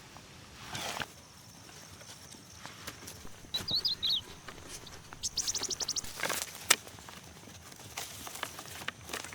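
Birds calling: a short warbling phrase, then a rapid trill of evenly repeated high notes a little past the middle, with scattered knocks and rustles.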